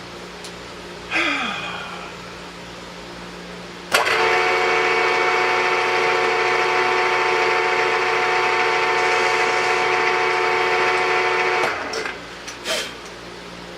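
Milling spindle of a 3-in-1 lathe-mill starting abruptly, running at a steady speed with a whine of several steady tones for about eight seconds, then winding down. A short burst falling in pitch comes about a second in, and another short burst comes near the end.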